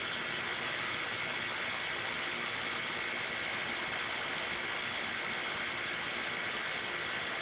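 Steady, even hiss with a faint high steady tone running through it and no separate sounds.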